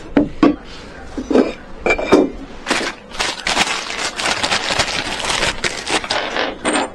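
Hard objects being handled: a few separate knocks and clinks in the first three seconds, then several seconds of dense, rapid clattering.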